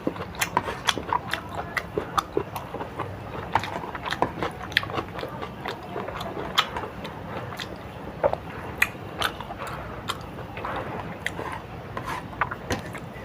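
Close-miked chewing and biting of crunchy food: a run of sharp, irregular crunches, often several a second.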